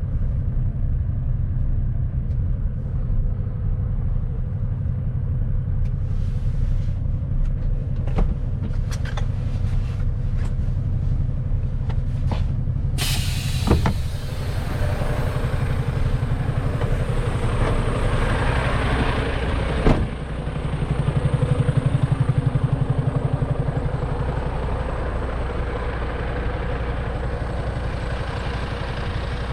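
Mercedes-Benz Actros truck's diesel engine running steadily as the truck drives. About halfway through a sudden hiss breaks in, and near two-thirds a sharp knock is followed by a louder engine note for a few seconds that then eases off.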